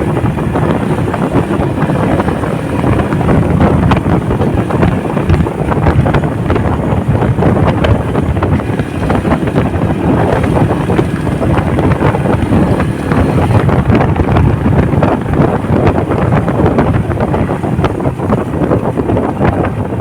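Wind buffeting the microphone of a moving motorcycle, a loud steady rush with the bike's engine running underneath.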